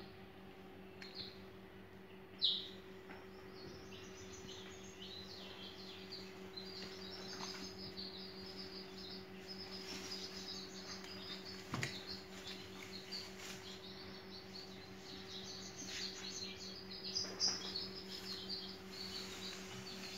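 Small birds chirping over and over in quick, irregular runs of short high notes, over a steady low hum. A few soft clicks and knocks come from handling.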